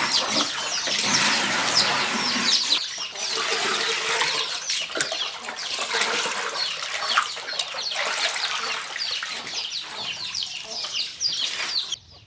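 A flock of guinea fowl calling: a dense, overlapping chatter of short, harsh cries over a steady hiss. It cuts off abruptly near the end.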